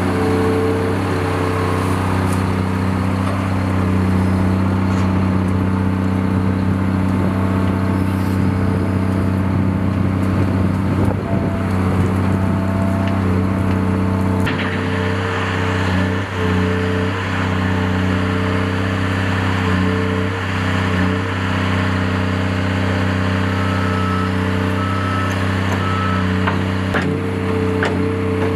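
Engine of a heavy machine running steadily at a constant speed, with a few knocks and clatters over it.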